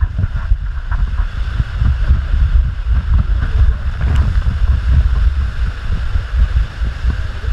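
Water rushing and rumbling during a ride down a water slide, with a heavy low rumble of wind and buffeting on the microphone.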